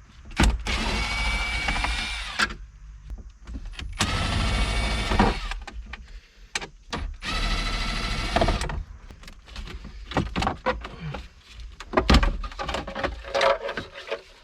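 A small electric motor whirs in three bursts of about one and a half to two seconds each, winding down at the end of each. Between the bursts come scattered clicks and knocks, with one louder knock near the end.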